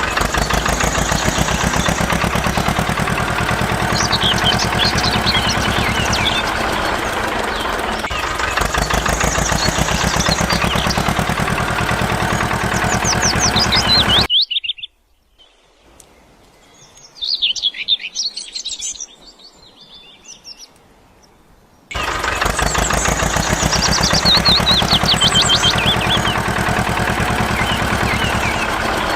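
An engine running with a rapid, even chugging pulse, with birds chirping over it. About fifteen seconds in, the engine sound cuts out for about seven seconds, leaving only faint bird chirps, then starts again just as loud.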